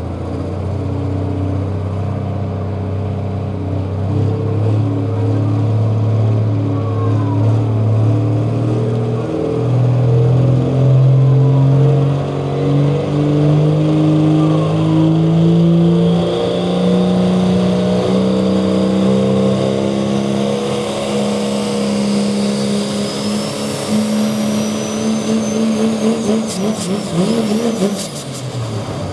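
Pro Stock diesel pickup's turbocharged engine at full load pulling the sled. Its note climbs slowly and steadily, a high turbo whine rises with it in the second half, and near the end the engine drops off sharply as the throttle comes off.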